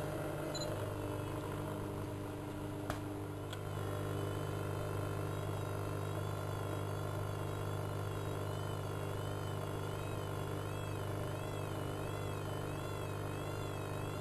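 Bauknecht WA1400 Dolphin washing machine running: a steady motor hum under high whining tones that waver up and down in pitch, with one sharp click about three seconds in.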